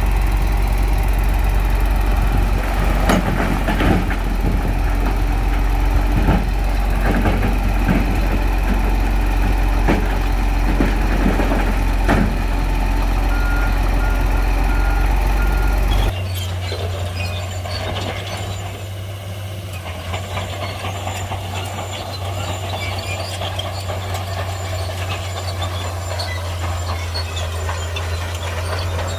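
Heavy Shantui bulldozer's diesel engine running under load, with repeated clanks and knocks from the machine and its tracks, and a few short beeps near the middle. About 16 seconds in, the sound cuts abruptly to a quieter, steady engine drone.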